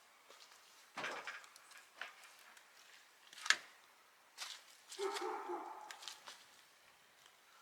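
A few sharp clicks and knocks, spaced about a second apart, then a goat bleating once for about a second.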